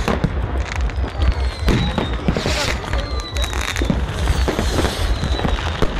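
Dense New Year's Eve fireworks, rockets and firecrackers going off in a rapid run of bangs and crackles. Three times a thin high whistle slides slowly down in pitch, over a constant low rumble.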